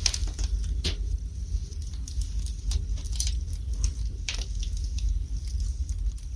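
Wood burning in a fireplace, crackling with irregular sharp pops; the loudest pops come right at the start and about a second in.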